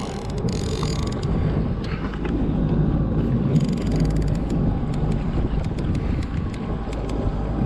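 Fishing reel working against a big hooked Spanish mackerel, with clicking and creaking from the reel, over a steady low rumble from the boat's motor.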